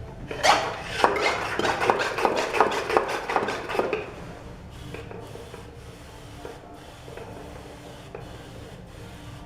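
Brush scrubbing primer onto gypsum decorative stone: quick scraping strokes, about three a second, for the first few seconds, then only faint brushing.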